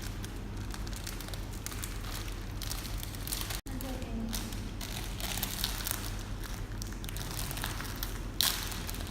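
Plastic snack packet crinkling and crackling in irregular bursts as it is handled and opened, over a steady low hum. The sound drops out for an instant about three and a half seconds in.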